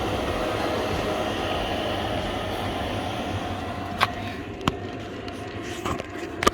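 Chinese 2 kW diesel heater running on its first test start, a steady rushing hum of fan and burner, with a few sharp clicks in the last couple of seconds.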